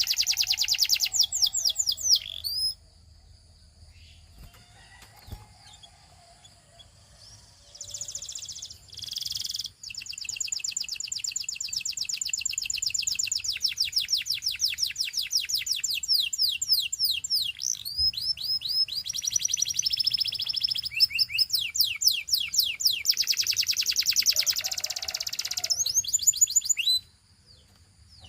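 Belgian singing canary singing long runs of rapid trills, each a fast string of repeated high notes, one trill type giving way to the next. It sings briefly at the start, pauses for about five seconds, then sings almost without a break until near the end.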